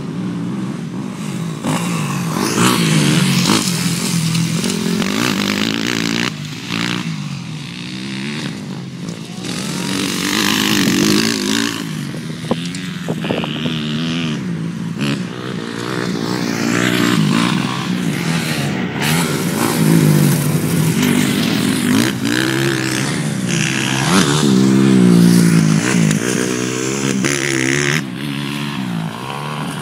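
Motocross dirt bike engines revving hard and dropping off over and over as the bikes ride the track, the pitch climbing and falling with each gear and throttle change and the sound swelling and fading as they pass.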